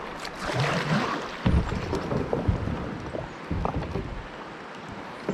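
Kayak being paddled through the water: splashing and water washing around the boat, with a few dull knocks.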